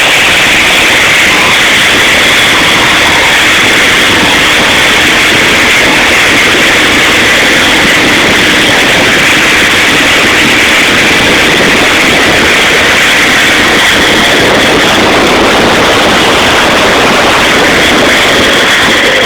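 Boat under way with its engine running: a loud, steady rushing hiss.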